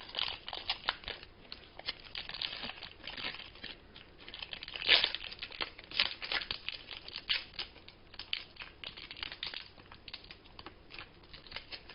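Foil wrapper of a 1998 Skybox Thunder trading-card pack being torn open and crinkled by hand: an irregular run of crackles, with a few louder tears about five and six seconds in.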